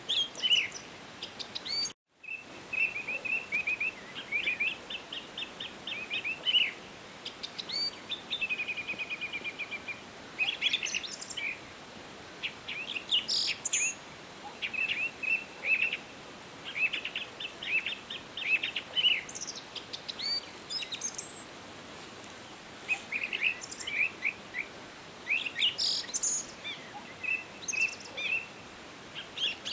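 Several songbirds singing, with repeated series of quick high chirps and trills, over a steady background hiss. A brief dropout to near silence about two seconds in.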